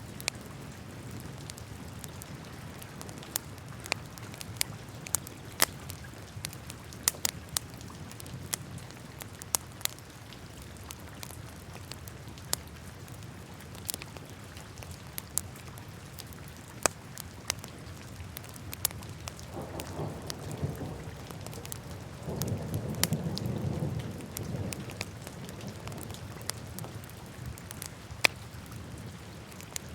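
Wood fire crackling in a fireplace: frequent sharp pops and snaps over a steady low hiss of burning. Twice, a little after the middle, a louder low rumble swells for a second or two.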